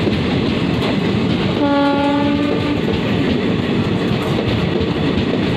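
Express train's passenger coaches running fast past the platform, a steady rush of wheel and rail noise. About a second and a half in, a train horn sounds one held note for about a second.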